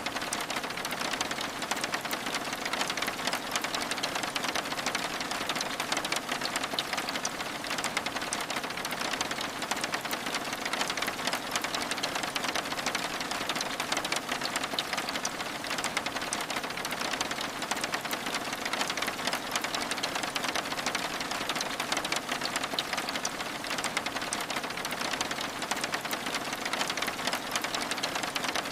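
Steady rain pattering on window glass: a dense, even patter of many small drops that never lets up.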